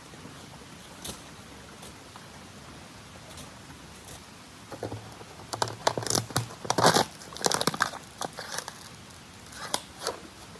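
Crinkling, rustling and clattering of camping gear being handled: a run of quick sharp taps and crinkles through the middle stretch, over a steady faint hiss.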